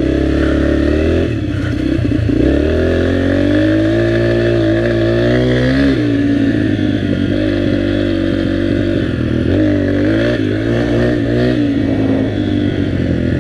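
Dirt bike engine running as it is ridden, its pitch climbing over a few seconds of throttle and then dropping sharply about six seconds in, with another rise and fall near the end.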